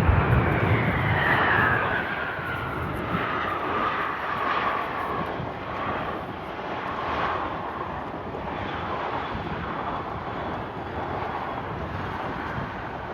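An airliner passing and moving away. Its engine whine falls steadily in pitch over the first five seconds while the rumble fades.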